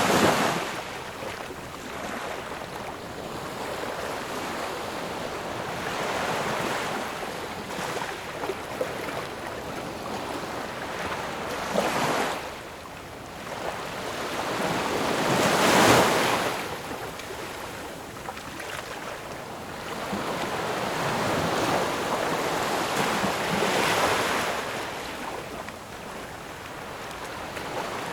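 Ocean waves breaking and washing in, in irregular surges every several seconds; the loudest one comes a little past the middle.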